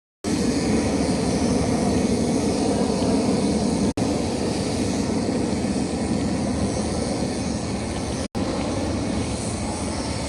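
Steady rushing wind and road noise of riding a bicycle in traffic, dense and unbroken except for two momentary dropouts about four and eight seconds in.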